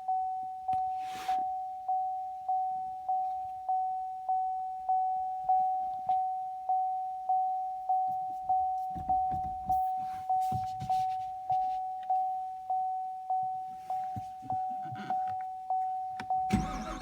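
2017 Chevrolet Camaro 2SS's warning chime dinging steadily, a single mid-pitched tone repeating a little under twice a second, with faint handling noises in the cabin. Just before the end the car's V8 begins to crank with a low rumble.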